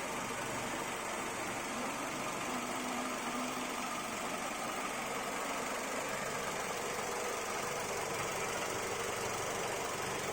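Daihatsu Sirion car engine running steadily after about seven years of use, sounding smooth.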